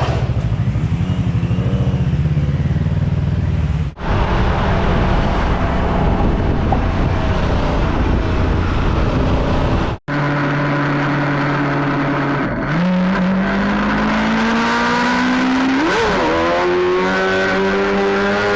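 Motorcycle engine running under heavy road and wind noise, in three short clips joined by abrupt cuts. In the last clip the engine holds a steady note, then its pitch climbs steadily as the bike accelerates.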